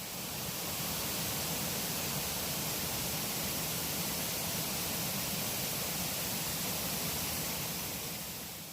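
Waterfall's steady rush of falling water, fading in at the start and fading out near the end.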